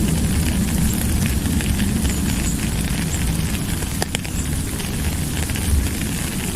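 Steady heavy rain with a deep low rumble under it and many small drop ticks; one sharper drop strike about four seconds in.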